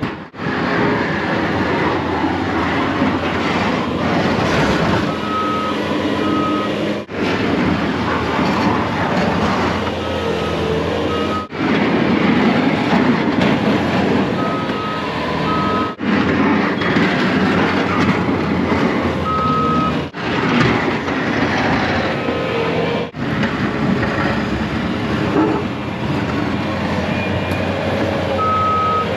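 Snow-plow truck running, with a reversing alarm sounding short beeps in pairs every few seconds as it backs up; the truck noise breaks off briefly several times.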